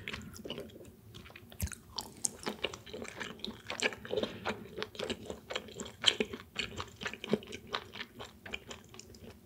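Close-miked chewing of tuna belly nigiri sushi: soft, irregular mouth clicks and smacks.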